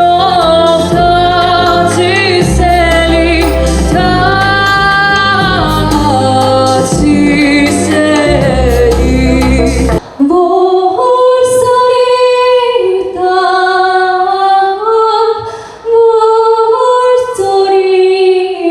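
Woman singing a slow melody over a full band backing with heavy bass. About ten seconds in it cuts abruptly to another song: a woman's voice holding long notes over light accompaniment.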